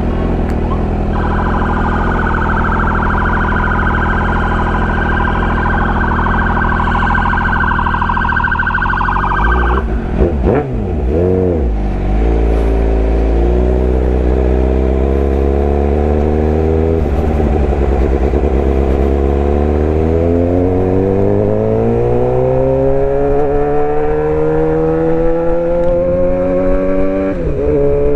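Suzuki GSX-R750 inline-four with aftermarket headers, midpipe and slip-on exhaust, running steadily at cruising revs. Its pitch dips and climbs quickly about ten seconds in, then rises steadily through the last third as the bike accelerates. A steady high tone sits over the engine for the first ten seconds and cuts off sharply.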